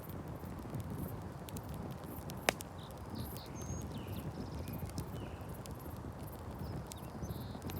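Campfire burning with a steady crackle and scattered pops, one sharp loud pop about two and a half seconds in. Faint short chirps recur about once a second behind it.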